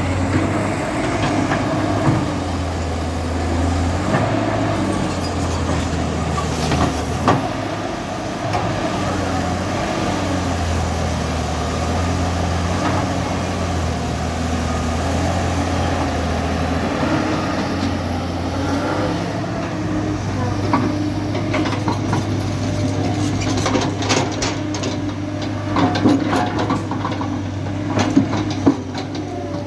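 Diesel engine of a JCB 3DX backhoe loader running steadily under work, with scattered sharp clanks and knocks in the last few seconds.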